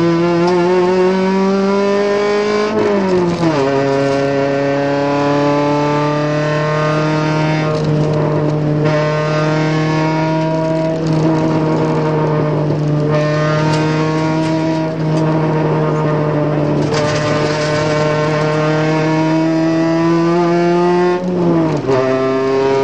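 Ford Focus rally car's four-cylinder engine under hard driving, heard from inside the cabin. The engine note climbs for about three seconds, dips in pitch, then holds steady for a long stretch before climbing again and dipping once more near the end.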